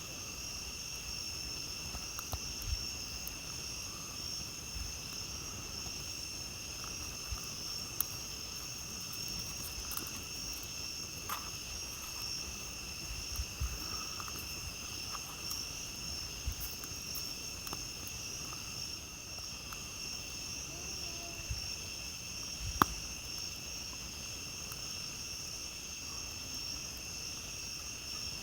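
Steady night chorus of crickets, with scattered crackles and pops from a wood campfire; one sharp pop stands out late on.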